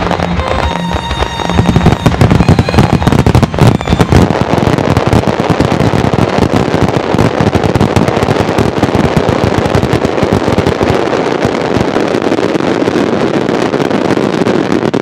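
Fireworks display: a fast run of sharp bangs in the first few seconds, then a dense, unbroken crackle from crackling stars.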